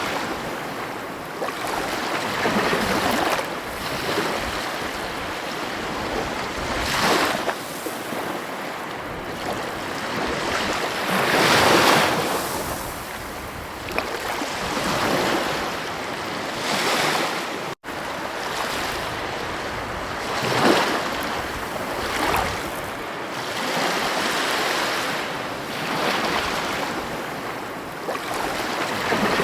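Ocean waves breaking and washing on a beach, a steady hiss of surf that swells every few seconds as each wave comes in. The sound drops out for an instant about two-thirds of the way through.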